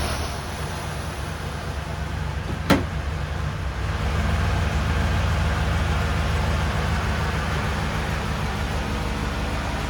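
1989 Cadillac Allante's 4.5-litre V8 idling steadily just after its first oil change in twelve years, a little louder from about four seconds in. A single sharp click comes about three seconds in.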